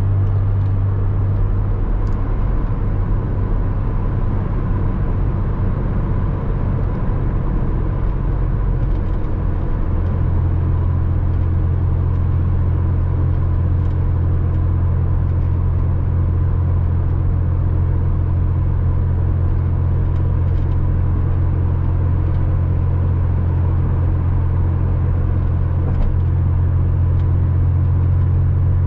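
Porsche Boxster 986 driving at a steady cruise: the flat-six engine and road noise make a deep, even drone, with a slight change in the engine note about a third of the way in.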